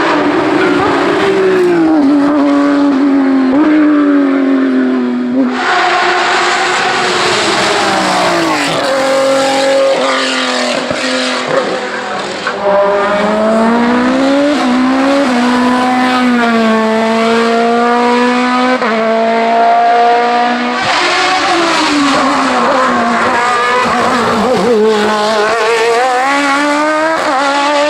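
Race car engines at full throttle, revving up and dropping back again and again as they shift through the gears. The sound changes abruptly twice, about five seconds in and again about twenty-one seconds in.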